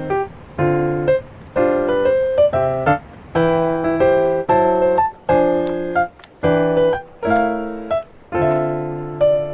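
Background music: a piano playing repeated chords at a steady, unhurried pace.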